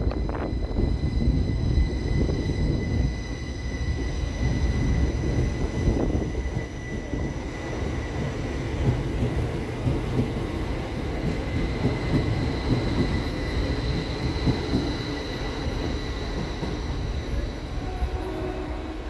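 Northern Class 333 electric multiple unit pulling out of the platform and running past: a continuous rumble of wheels on rail under a steady high whine.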